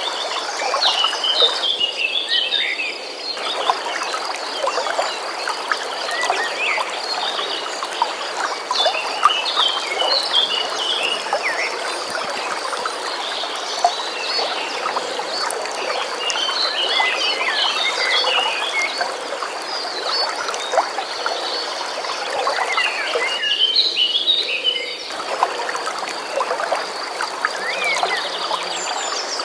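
Songbirds chirping in short bursts every several seconds over a stream's steady flowing water. A thin, high, pulsing trill runs throughout.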